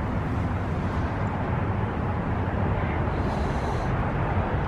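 Steady low rumble with a haze of noise and no distinct events.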